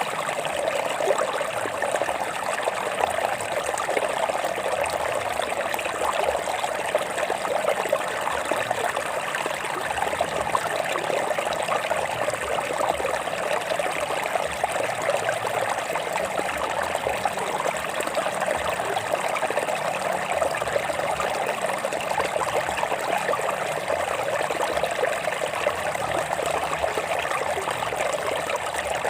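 A stream of water flowing and trickling over rocks, a steady babbling with no let-up.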